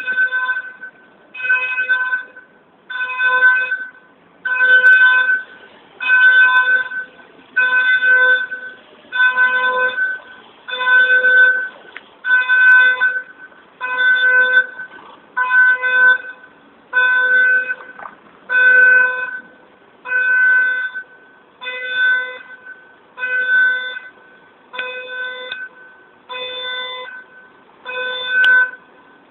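A fire engine's reversing alarm beeping steadily while the truck backs up: one long, even-pitched beep about every second and a half, with the truck's engine faint underneath.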